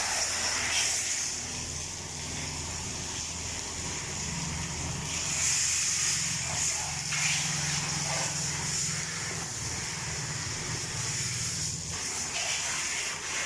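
Pressure-washer water spray hissing on a car at a car wash, swelling louder midway, over the steady low hum of a machine running.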